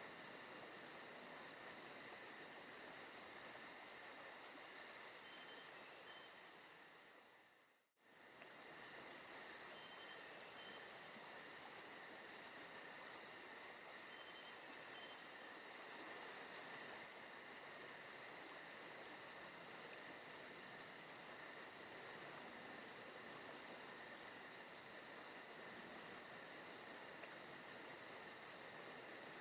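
Recorded forest ambience with insects chirring steadily and faintly in a fast, even pulse. About eight seconds in it fades down to silence and comes straight back up, like the seam of a looped track.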